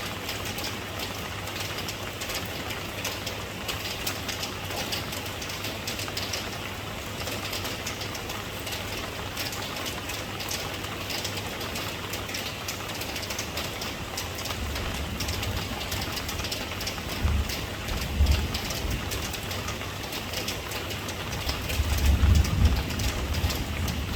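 Steady rain falling, with a dense patter of drops. From about halfway on, a low rumble swells in and out in uneven bursts, loudest near the end.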